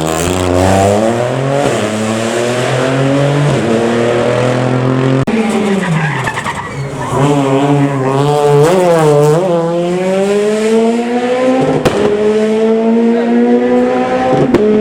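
Rally car engine accelerating hard, its pitch climbing, with a brief lift about five seconds in. Around eight to nine seconds the revs drop and rise quickly a few times, then the engine pulls steadily upward again.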